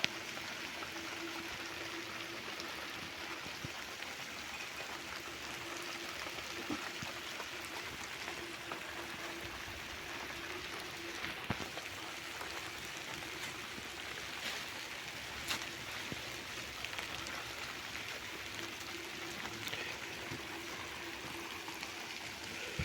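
Steady rushing water noise, with a few sharp knocks along the way.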